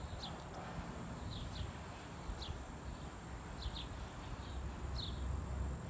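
A small bird chirping outdoors: short, high chirps, some single and some in quick pairs, spaced a second or so apart, over a steady low background rumble.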